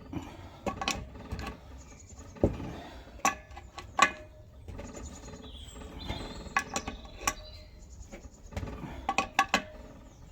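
Hand tools clinking against the metal fittings of an old engine: sharp knocks with a short metallic ring, coming in small clusters every second or two.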